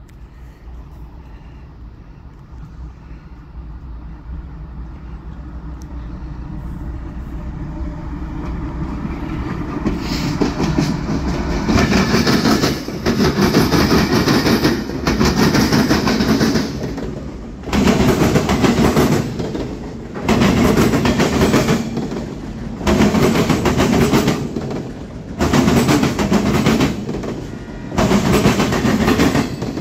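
Freight train approaching, growing steadily louder for about ten seconds, then passing close with a loud rumble and wheel clatter that surges and dips every two to three seconds as the cars roll by.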